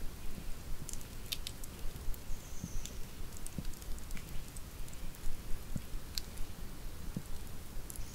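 Wood campfire burning: irregular crackles and sharp pops over a low, steady rumble of flames.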